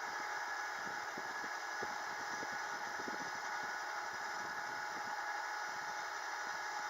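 Kubota tractor's diesel engine running steadily, with a light rattle and a steady whine over it.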